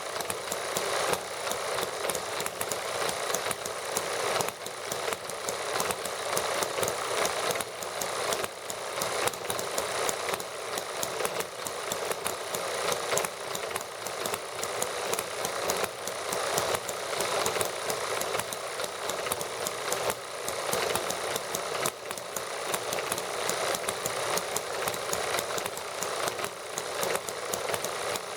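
Several small toy model gasoline engines running steadily together, a rapid, even ticking of firing strokes with a thin sound and little bass.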